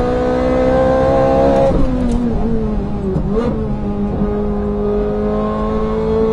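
Ferrari 430 Scuderia's V8 at full throttle, its pitch climbing, then falling away sharply a little under two seconds in as the car brakes hard from about 180 km/h. Brief jumps in pitch follow as it shifts down. From about four seconds in it holds a steady lower note that rises slowly as power goes back on through the corner.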